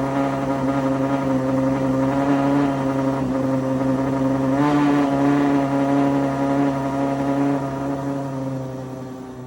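Ferrari 812 Superfast's naturally aspirated V12, Stage 2-tuned, running at a steady raised idle after a cold start. The pitch lifts a little about halfway through, and near the end the engine gets quieter as the idle drops back.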